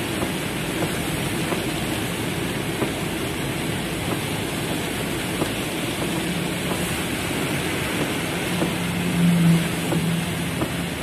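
Heavy rain falling on a car's roof and windows, heard from inside the cabin: a steady hiss with scattered ticks of individual drops. A low hum comes in about halfway through and is loudest near the end.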